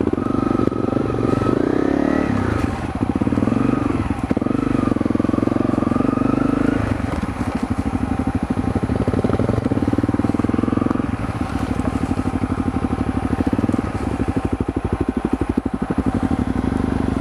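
Honda CRF250L dual-sport motorcycle's single-cylinder four-stroke engine running as the bike is ridden on a trail, its note rising and falling every few seconds with the throttle.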